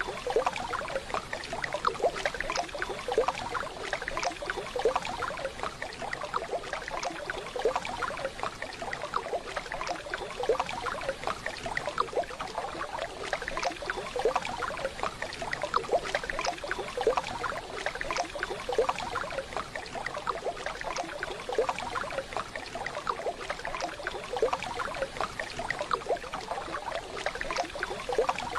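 Waterfall recording: water falling and splashing in a steady, dense patter.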